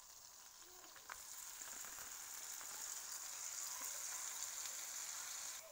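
Prawns, fish chunks and mussels sizzling as they fry in hot butter and oil in a nonstick pan; the sizzle swells about a second in as the seafood goes into the fat, then holds steady.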